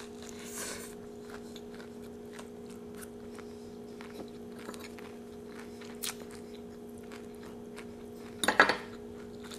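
Close-up eating sounds: a Doritos taco being bitten and chewed, with faint crunching and a low steady room hum. Near the end comes a short burst of clinking as a metal spoon knocks against a pot.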